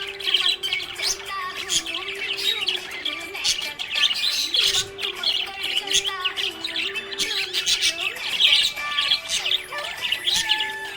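Budgie chirping and chattering in a continuous stream of quick, high chirps and clicks, with background music underneath.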